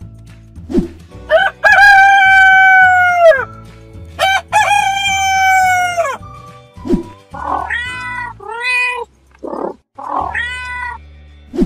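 A rooster crowing twice, two long cock-a-doodle-doo calls, followed by a cat meowing about three times, over soft background music.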